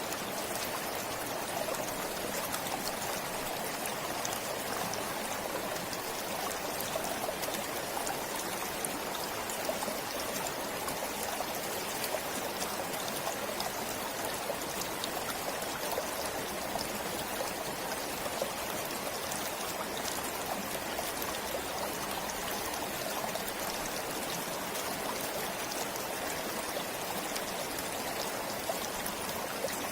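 A forest stream flowing steadily, water trickling and splashing over stones with a continuous rushing sound.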